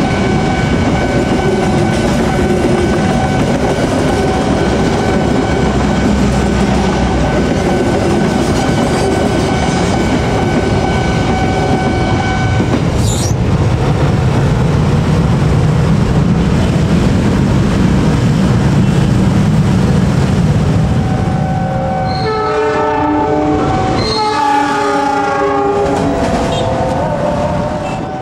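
Passenger coaches rolling over the rails at a level crossing, with steady ringing tones above the rumble. Near the end, two long blasts of a train horn follow.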